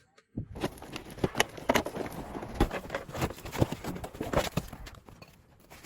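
A run of irregular light knocks and clicks over a faint background noise, thinning out after about five seconds.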